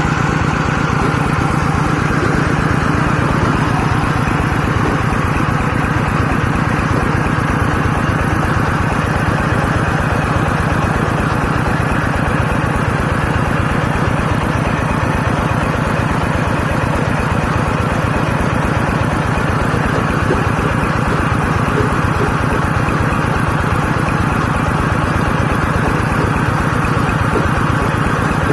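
Engine of a borehole well-drilling rig running steadily at a constant speed.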